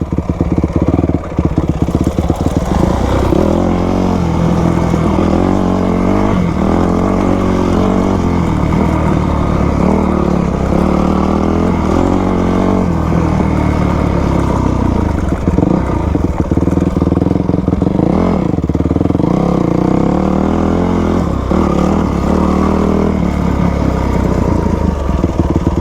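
2000 Yamaha YZ250's two-stroke single-cylinder engine running while the dirt bike is ridden off-road, the revs rising and falling over and over with the throttle.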